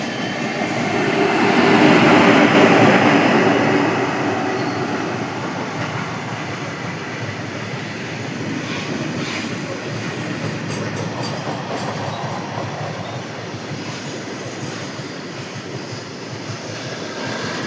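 A train running along the track, a steady rumble of wheels and carriages that swells louder about two seconds in and then settles back to an even level.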